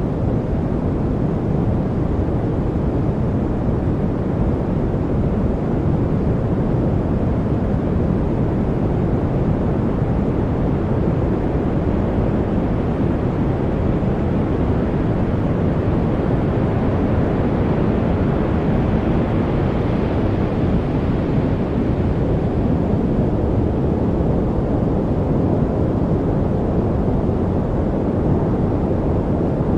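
Continuous rushing noise, strongest in the low range, with no breaks. It swells slowly brighter about two-thirds of the way through, then eases back.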